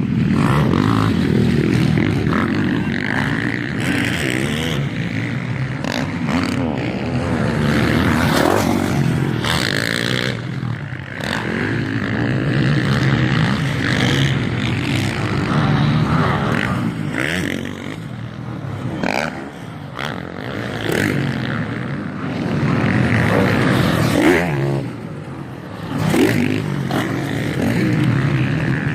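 MX1 motocross bikes racing, their engines revving up and falling off over and over as riders accelerate and back off around the track.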